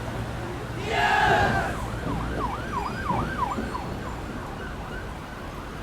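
A siren-like warbling tone in rapid repeated pitch swoops, about two to three a second, fading toward the end, after a short burst of sound about a second in.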